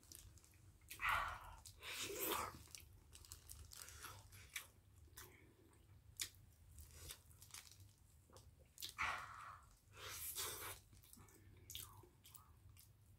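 Close-up chewing of soft boiled sweet potato: wet mouth sounds and small clicks, with louder stretches of mouth noise about a second in and again around nine to ten seconds in.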